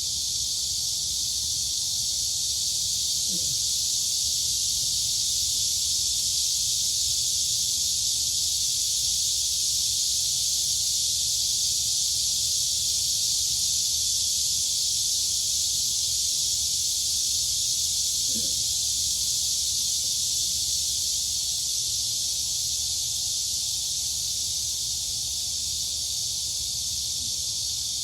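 Dense chorus of crickets and cicadas: a steady, high, even drone with no break or change in level.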